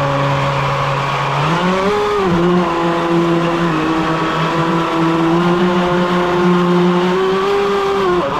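A boat's motor running steadily with a buzzing pitched note. About a second and a half in it revs up and holds the higher pitch, then eases off near the end.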